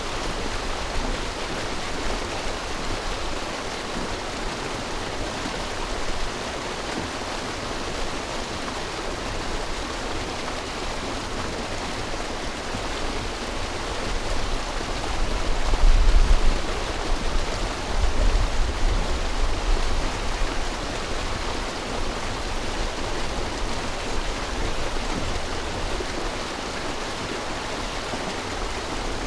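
River water rushing steadily. A low rumble swells for a few seconds in the middle.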